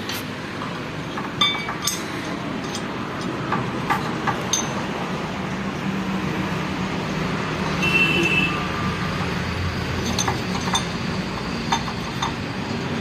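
Metal hand tools and steel tractor gearbox parts clinking irregularly, with a short metallic ring about eight seconds in, while the parts are being tightened during a gearbox fitting.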